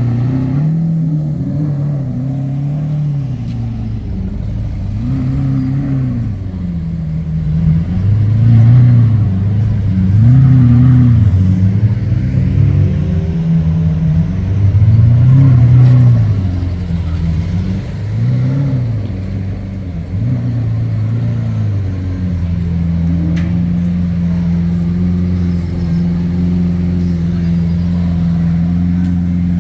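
Lamborghini Aventador's V12 engine being revved in a string of throttle blips, each rising and falling in pitch about every two seconds, then settling into a steady idle about two-thirds of the way in.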